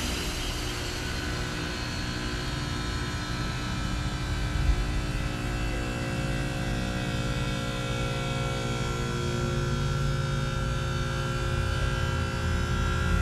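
2013 Trane XR13 heat pump outdoor unit running in its defrost cycle: a steady compressor hum with many steady tones above it. There is one short knock about a third of the way in, and the low hum grows louder near the end.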